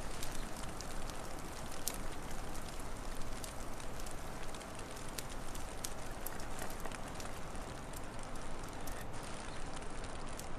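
Wood fire crackling, with irregular sharp pops and snaps over a steady rushing hiss.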